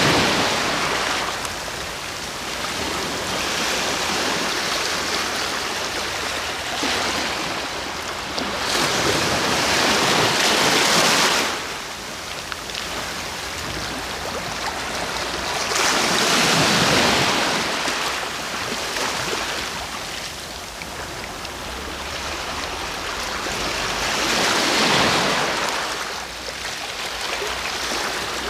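Sea waves breaking and washing onto the shore, the surf swelling up and falling back every seven or eight seconds, three times.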